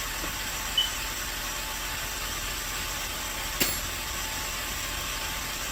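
Chrysler 300 engine idling steadily after a radiator replacement, running smoothly. A brief high chirp just under a second in and a single sharp click past halfway.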